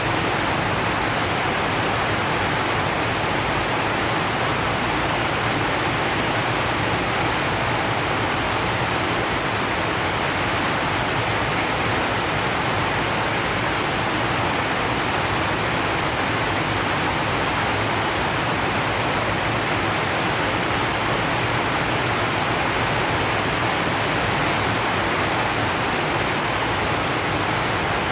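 Steady rain on a zinc sheet roof, an even, unbroken hiss with no single drops standing out.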